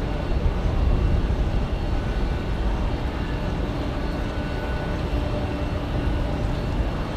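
Jet airliner engines running with a steady low rumble, with faint steady whining tones over it.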